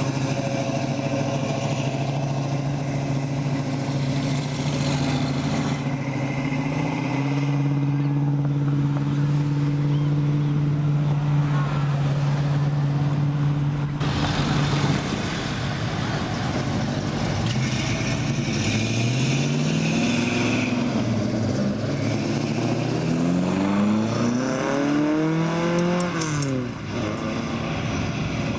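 Car engines running as cars drive out one after another: a steady drone for the first half, then several engines revving up with rising pitch in the second half.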